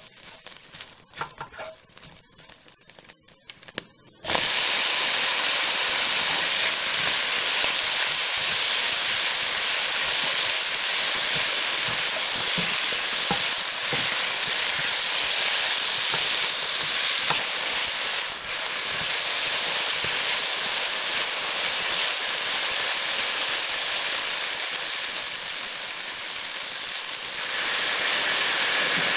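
Sliced zucchini stir-frying in a hot pan with minced beef and chili sauce. For about four seconds there are only light clicks of stirring, then a loud, steady sizzle starts suddenly. The sizzle eases slightly and rises again near the end as soy sauce goes into the pan.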